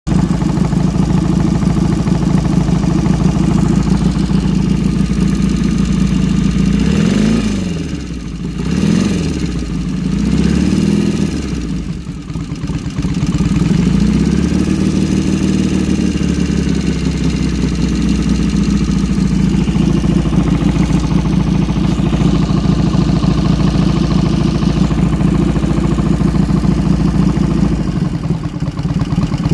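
1971 BSA Lightning's 650 cc parallel-twin engine, running through open straight pipes with velocity stacks on the carburettors, on its first run in 14 years. It idles steadily, and the throttle is blipped a few times between about 7 and 12 seconds in.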